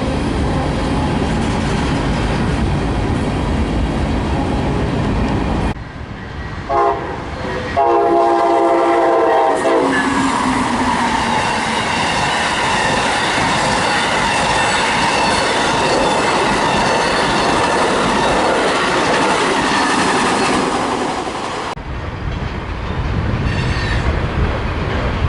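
Train going by with steady wheel and rail noise. About six seconds in, a locomotive air horn gives a short toot and then a blast of about two seconds, several pitches sounding together. The train noise carries on until it cuts off suddenly near the end.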